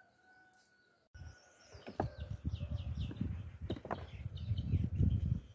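Birds chirping outdoors after a cut about a second in, a run of short falling chirps, over a low uneven rumbling noise. Two sharper knocks come about two and four seconds in.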